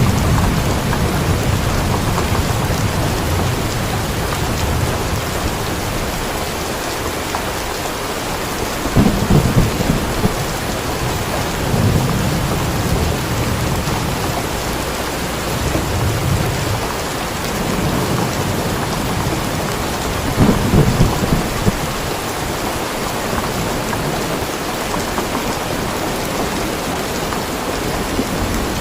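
Steady rain with low rolling thunder that swells and fades several times, loudest about nine and twenty seconds in.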